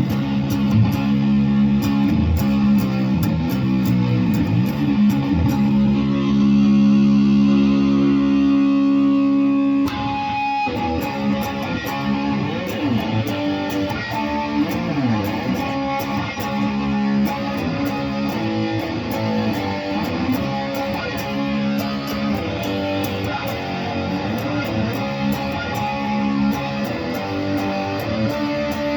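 Electric guitar being played: notes and chords continuously, with one chord held and ringing for a few seconds, then cut off sharply about a third of the way in before the playing goes on a little quieter.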